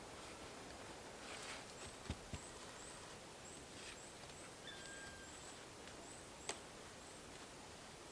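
Faint, high-pitched chirping from a small animal, short thin notes repeating about twice a second, over quiet outdoor background noise, with a couple of soft knocks and one sharp click.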